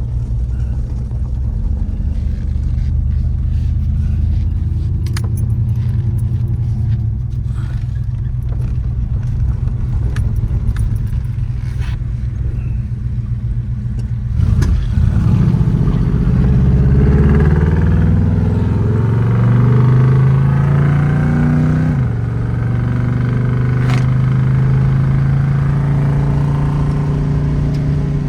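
Crate 350 V8 of a 1980 Chevrolet El Camino running while driving, heard from inside the cab. About halfway through it accelerates, its note rising for several seconds, then drops suddenly at a gear change and settles into a steady cruise.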